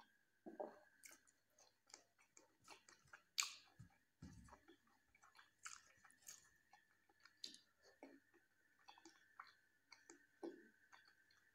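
Close-miked chewing of a mouthful of jackfruit curry, with quiet, irregular wet mouth clicks and smacks; one louder smack about three and a half seconds in.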